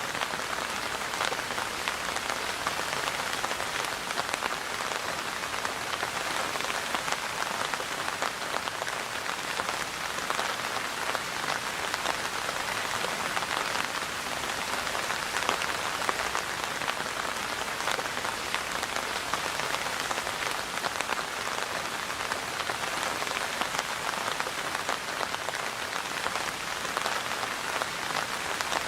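Steady rain falling on a surface, a dense even patter of drops with fine individual drop ticks.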